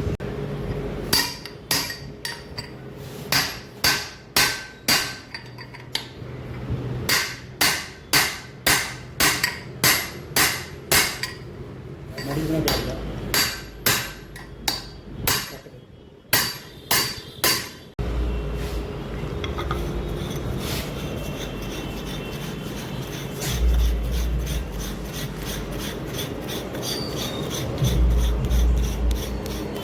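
Hammer blows on metal, sharp ringing strikes in quick runs of about one or two a second. After about eighteen seconds they stop abruptly, giving way to a steady noisy hum with a few deep thumps.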